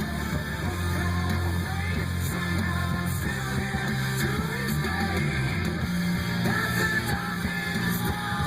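Rock music with guitar and singing playing through a truck's bass sound system, with deep bass notes held for a second or two at a time.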